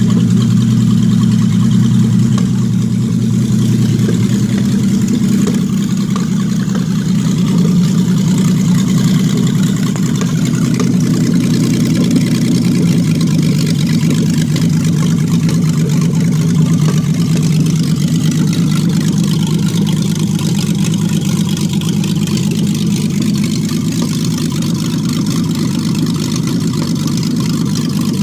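Mercedes M123 engine fitted in a Unimog 404 idling steadily, its note shifting slightly about twelve seconds in.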